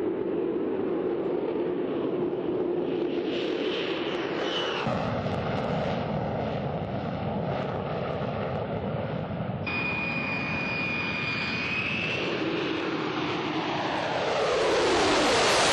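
Boeing X-32A jet engine running, heard across several edited shots as a steady rush with a high whine. Near the end it grows louder as the jet closes in for a pass, its sound sliding down in pitch.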